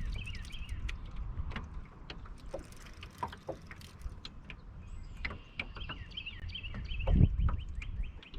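Small birds chirping, with scattered sharp clicks and knocks and a low rumble that swells briefly near the end.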